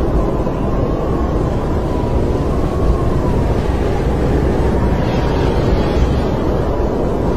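Snowstorm wind blowing steadily with a deep rumble and a faint, slowly wavering whistle.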